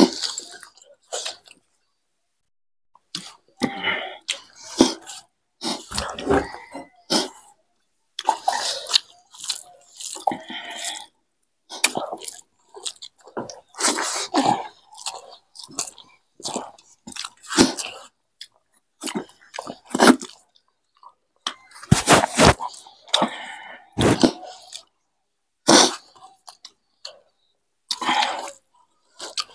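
Close-up chewing and mouth sounds of people eating rice and egg curry with their hands, coming in irregular clusters with brief silent gaps.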